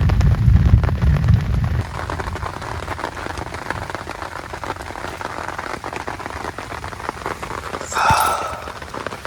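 Heavy rain falling, with a steady hiss and many drops ticking. A deep low rumble runs under it for the first two seconds and stops abruptly. About a second before the end comes a brief, ringing clatter.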